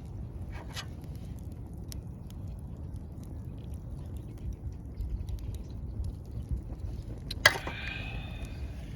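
Scrap-wood campfire burning with a steady low rumble and scattered small crackles. About seven and a half seconds in, the wood pops loudly once, followed by a brief whistling hiss.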